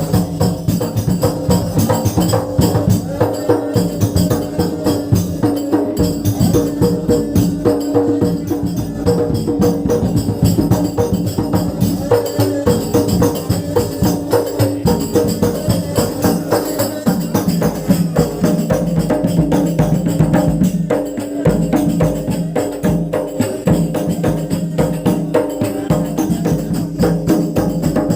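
A hadroh ensemble playing: rebana frame drums and a bass drum beating a fast, steady rhythm, with tambourine jingles on top.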